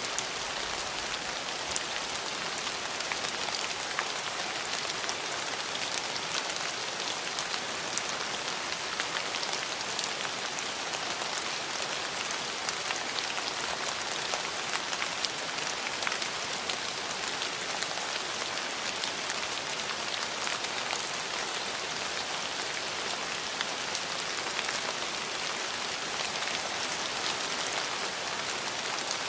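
Steady rain falling, a continuous even hiss with countless fine drop ticks.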